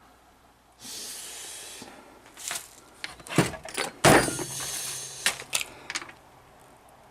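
A short hissing rush, then a series of knocks and clatters of hard objects being handled, the loudest about four seconds in, dying away after about six seconds.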